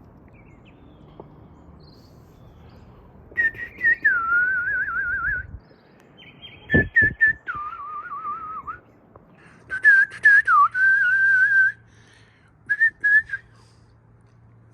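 A person whistling a wavering, warbling tune as a single pure tone, in four phrases with pauses between them. There is a short low thump about seven seconds in.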